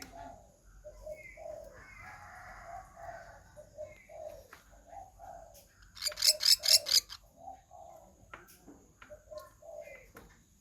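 A pelatuk sampit, a bird Indonesian bird-keepers know as a kind of woodpecker, calling: a string of short, low, repeated notes, broken about six seconds in by one loud, rapid, high-pitched trill lasting about a second.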